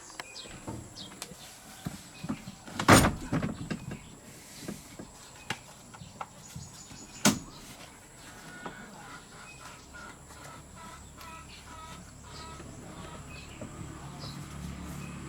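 Two sharp knocks, one about three seconds in and one about seven seconds in, among lighter taps and clicks.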